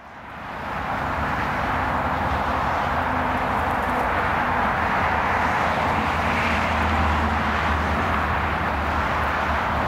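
Steady running noise of an approaching diesel freight train: a low, even engine drone under a broad hiss, with no horn.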